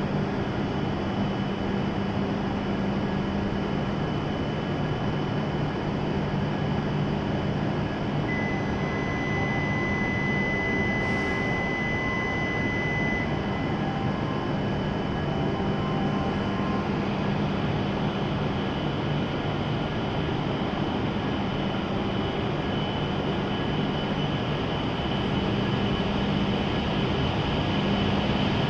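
Steady hum and hiss of an E7-series Shinkansen train standing at the platform, growing slightly louder near the end. About eight seconds in, a high steady beep sounds for about five seconds.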